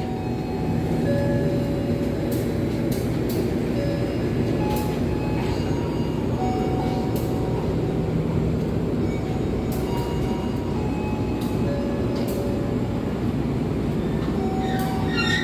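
Passenger train pulling out, its executive-class coaches rolling past with a steady rumble of wheels on rail and scattered sharp clicks.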